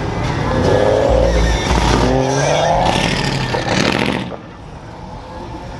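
A car accelerating hard, its engine revving up in rising pitch through about two gears, then fading away sharply about four seconds in.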